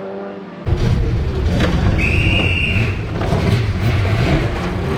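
Race car engines running on the circuit, heard as a steady, loud rumble that starts suddenly about a second in. A brief high-pitched tone sounds about two seconds in.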